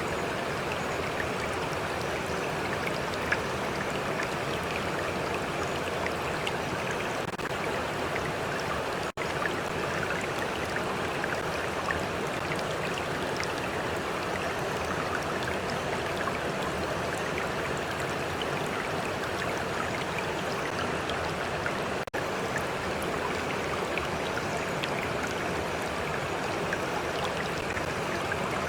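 Steady flow of a small stream, water running and lapping with many small splashes and drips. The sound cuts out for an instant about nine seconds in.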